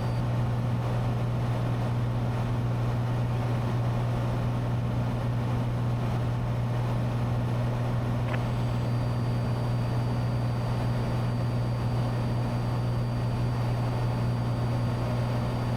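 Cessna 182T's six-cylinder Lycoming IO-540 engine and propeller droning steadily in flight, a low even hum. A brief click about eight seconds in.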